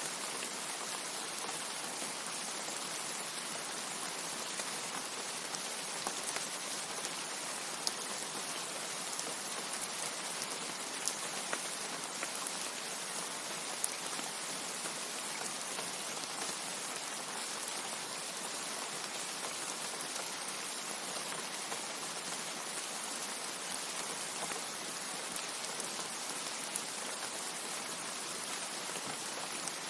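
Steady rain falling, an even hiss with scattered sharper drip ticks now and then.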